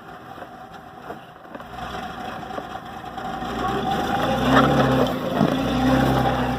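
Engine of an off-road vehicle running, getting louder from about halfway through.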